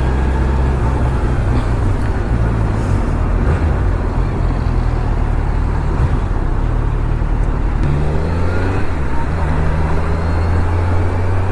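Kawasaki Z900's inline-four engine running under way, with wind and road noise over the microphone; the engine note shifts about eight seconds in.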